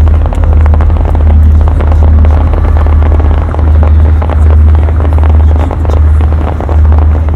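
A rapid barrage of aerial firework shells: deep booms that run into one another and swell about every second, over dense crackling.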